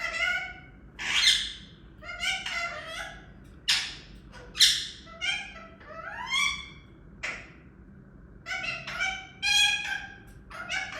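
Talking parrot giving a string of short squawking calls, about one a second, some rising or falling in pitch.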